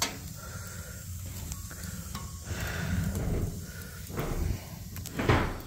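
Fire burning in a freshly lit wood stove's firebox: an uneven hiss with a few sharp crackles, one near the start and a couple about five seconds in.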